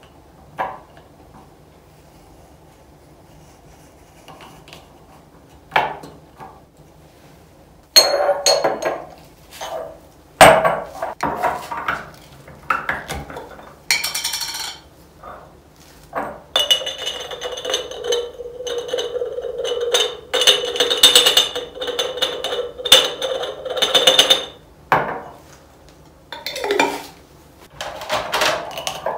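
Glass jars and kitchen containers being handled: clinks, knocks and set-downs. After a mostly quiet start with a couple of clicks, the handling runs on continuously from about eight seconds in.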